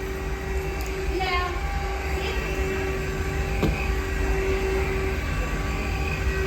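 Cordless vacuum cleaner running steadily: a constant motor whine over a low rumble, with a brief falling sweep about a second in and a single click near the middle.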